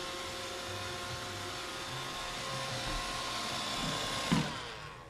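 Roomba robot vacuum's motors running steadily with a whirring hum as it drives back to its dock. About four seconds in there is a single knock, and the motors wind down and fade away.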